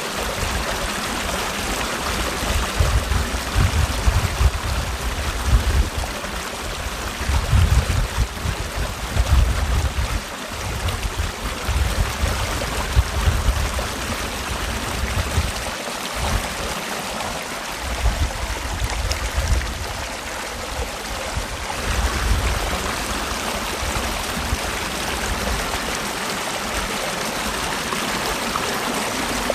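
Mountain stream in a rocky valley, water rushing and splashing over rocks in a steady, even flow. Underneath, a low rumble comes and goes in uneven swells.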